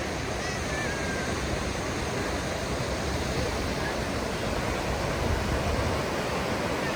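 The Kunhar River's whitewater rushing, a steady, unbroken noise.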